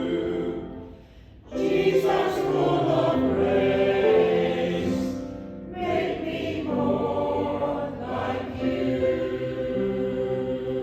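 A group of voices singing a slow hymn in held notes. The singing breaks off briefly about a second in, then comes back in, with another short dip just before six seconds.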